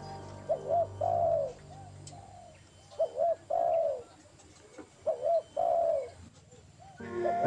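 A bird call repeated three times, about every two and a half seconds, each time two short hooked notes followed by a longer falling note. A faint music bed sits underneath, and flute music comes back in near the end.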